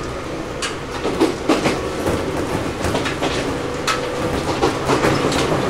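Ohmi Railway 800 series electric train heard from inside the car while running, its wheels clicking irregularly over rail joints above a steady low running hum.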